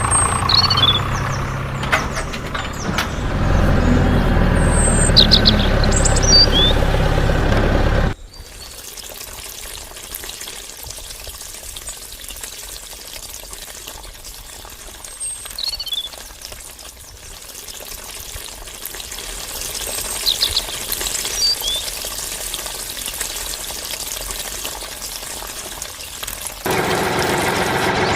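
Small birds chirping now and then over a steady background noise. A loud low hum in the first eight seconds cuts off suddenly.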